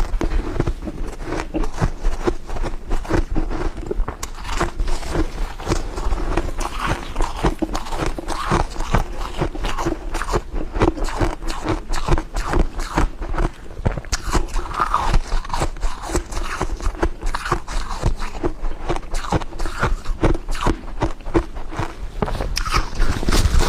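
A person biting and chewing ice frost, a continuous run of rapid crisp crunches.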